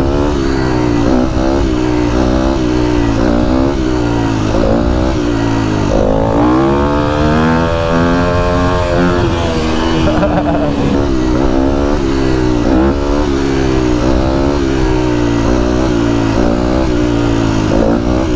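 Dirt bike engine running on the move, its pitch rising and falling every second or two with the throttle, with one longer climb in the middle that drops off about ten seconds in.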